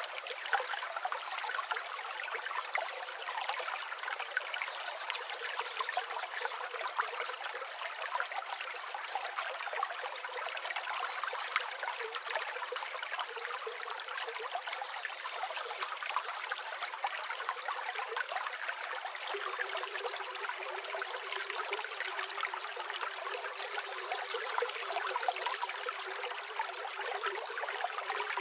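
River water flowing and trickling in a steady, even rush with no deep rumble.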